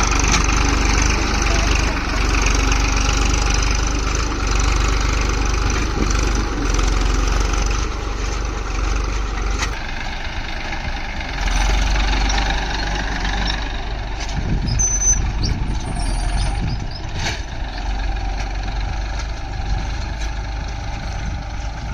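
Massey Ferguson 241 DI tractor's three-cylinder diesel engine running steadily; the sound thins about ten seconds in.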